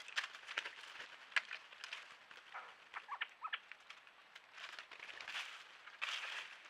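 Birds moving about in dry leaf litter at a forest pool, giving sharp crackles and rustles, with a few short bird calls about halfway through and a brief hissing rustle near the end.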